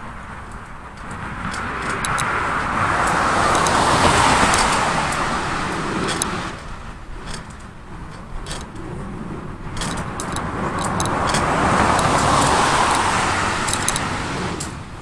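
Two cars passing one after another, about eight seconds apart, each swelling up and fading away, with light clicking in the background.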